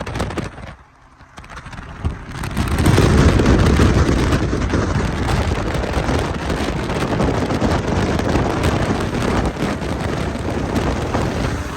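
Moving car with the window open: rushing wind and road and engine noise. It drops away briefly about a second in, then comes back louder from about three seconds.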